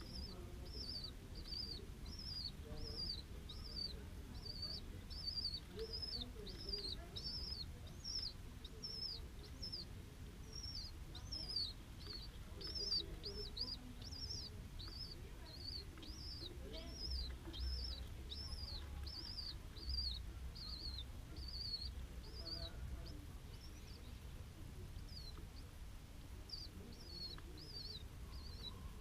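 A small bird chirping repeatedly, short high chirps at about two a second that thin out near the end, over a low steady rumble.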